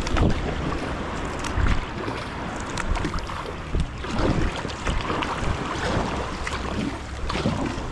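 Kayak under way on open sea: water sloshing and paddle splashes at irregular intervals, with wind buffeting the microphone.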